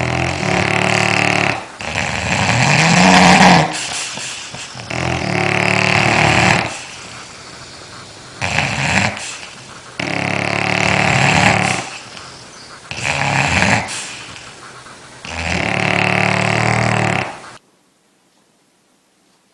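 A dog snoring in a run of about seven long snores, one every two to three seconds, that stop abruptly near the end.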